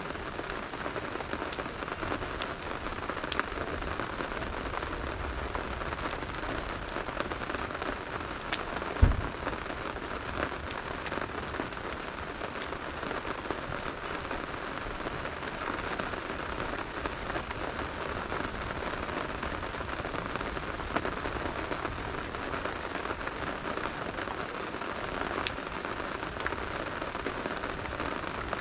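Steady rain hiss with a campfire crackling, sharp pops scattered through it. A single dull thump about nine seconds in is the loudest sound.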